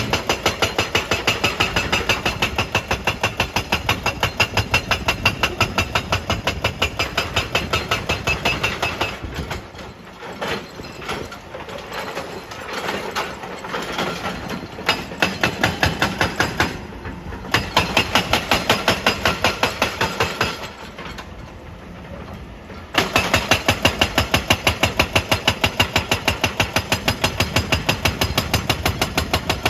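Excavator-mounted hydraulic rock breaker hammering stone in fast, even blows, several a second, over the running diesel engine. The hammering drops back to weaker, uneven strikes about nine seconds in and again about twenty seconds in, then picks back up at full rate.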